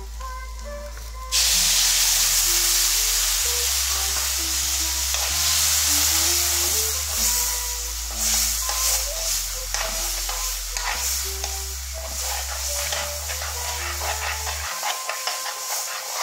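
Green beans frying in a metal kadhai: a loud sizzle starts suddenly about a second and a half in, as the yogurt mixture hits the hot pan, and keeps on while a spatula stirs and scrapes through the beans. Background music with a bass line plays under it, and the bass drops out near the end.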